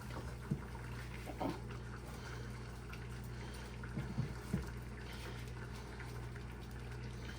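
French toast frying in a pan, faintly sizzling over a steady low hum. A few brief faint whines come about half a second in, around a second and a half, and around four seconds in.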